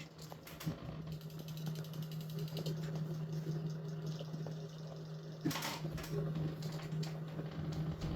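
Steady low mechanical hum, with a short noisy swish about five and a half seconds in.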